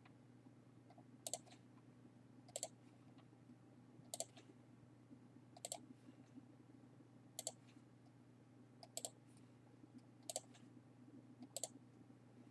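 Computer mouse clicking: about eight single clicks at a slow, fairly even pace, roughly one every second and a half, over a faint steady low hum. These are transactions being ticked off one by one while reconciling a statement in accounting software.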